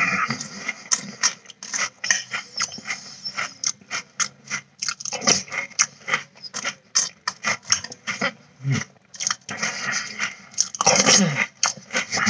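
Close-up mouth sounds of someone chewing a mouthful of Cinnamon Toast Crunch cereal: irregular crisp crunches several times a second, with a louder, longer stretch of noise about eleven seconds in.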